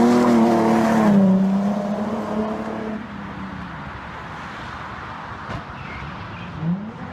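A car engine running under throttle. Its pitched note wavers, drops slightly about a second in, and dies away about three seconds in. Quieter road noise follows.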